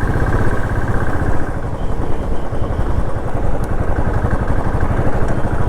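Motorcycle engine running steadily while the bike is being ridden along the road.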